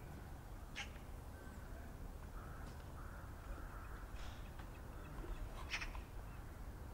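A few short bird calls, spaced a second or two apart, over a low steady background rumble.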